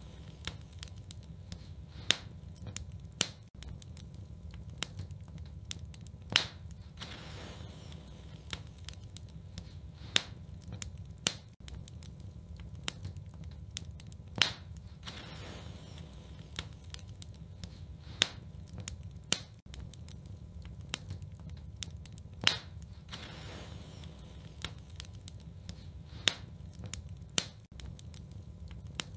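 Wood fire crackling in a fireplace: a steady low rumble of burning with irregular sharp snaps and pops, a few much louder ones every few seconds.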